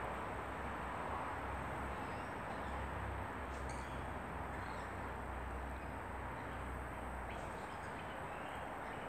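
Steady outdoor background noise with a low rumble, and a few faint, short bird chirps about four seconds in and again near the end.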